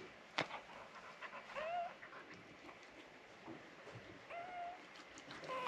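Newborn Miniature Australian Shepherd puppies squeaking faintly while nursing: three short, high squeaks, one about a second and a half in, one about four seconds in and one near the end.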